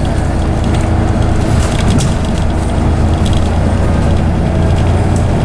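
Scania OmniCity single-decker bus heard on board: the diesel engine running steadily through its ZF automatic gearbox, with clicks and rattles from the bodywork and fittings.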